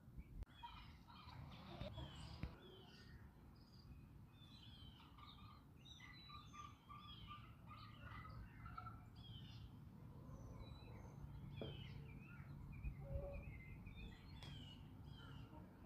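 Faint outdoor birdsong: many small birds chirping and twittering all through, over a low steady background rumble.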